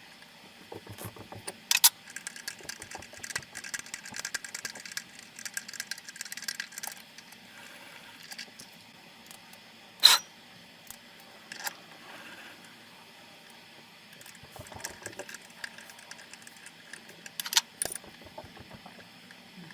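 Light metallic clinking and rattling of small hand tools being handled, with a few sharp clicks, over a faint steady hum.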